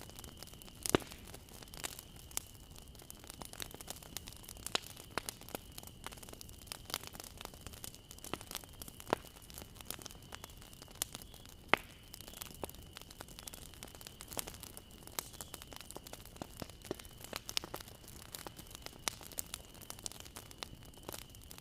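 Bonfire crackling: wood burning with a steady soft hiss and irregular sharp pops and snaps, the loudest about a second in and again near the middle. A faint steady high tone runs underneath.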